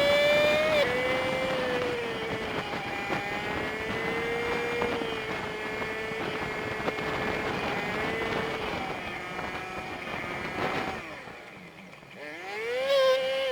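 Honda Super Cub 50's single-cylinder four-stroke engine and road noise heard from the bike, played back fast-forward so it comes out as a high, steady whine. The pitch drops slightly about a second in, fades out past the ten-second mark, then rises and falls quickly near the end.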